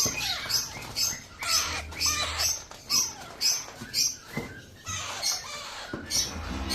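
Parrot calling: short shrill chirps repeating about twice a second, mixed with lower squawks that fall in pitch.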